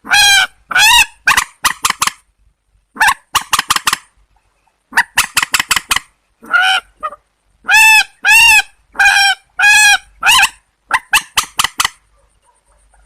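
Rail calls from swamphens and white-breasted waterhens: loud, honking, nasal calls in quick clusters of short notes, with a run of five longer arched calls about eight seconds in.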